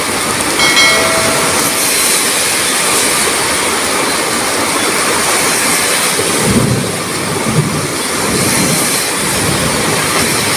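Heavy rain pouring steadily in a loud, even hiss. A low rumble swells a little after six seconds in, and a brief high squeak is heard about half a second in.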